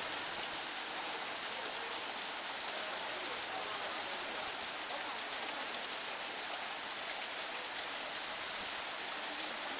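Flowing water rushing steadily, with a higher hiss that swells and fades about every four seconds.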